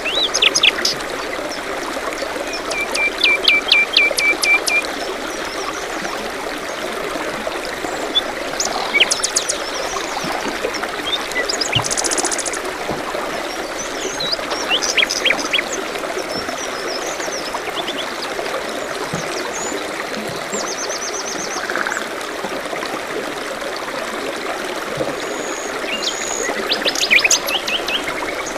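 Steady rush of a forest stream, with several songbirds calling over it: scattered chirps and whistles, and short rapid trills, one about three seconds in and another near the end.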